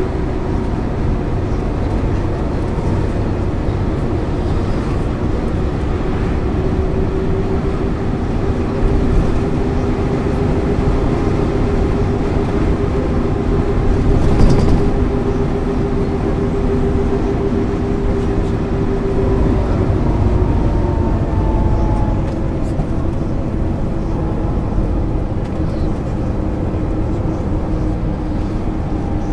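1999 MAN ÜL 353 bus under way, heard on board: a steady engine and drivetrain drone with a held tone that dips slightly about two-thirds of the way through.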